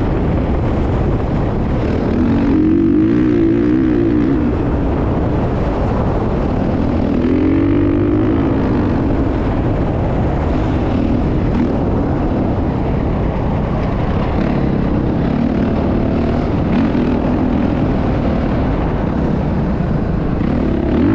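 Motocross bike engine running, its pitch swelling and dipping several times as the throttle opens and closes.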